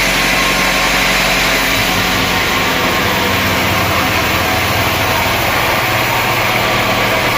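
Sawmill machinery running steadily: a continuous engine-like hum under an even hiss, with no breaks.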